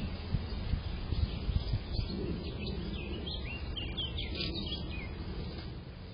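Small birds chirping: a quick series of short, high notes over a steady low rumble of outdoor noise.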